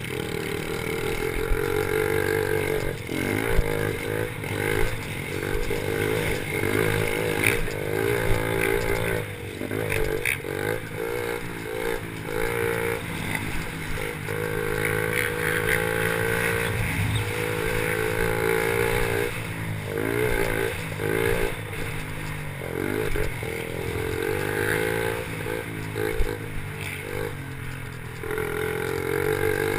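Small pit bike engines revving hard, their pitch climbing and falling back over and over as the riders accelerate and shift around the track, with scattered knocks and clatter.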